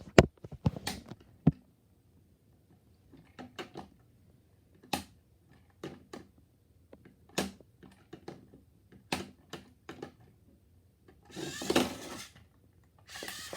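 Irregular sharp clicks and knocks of toys being handled and moved, spaced out with short pauses, and a brief rustle near the end.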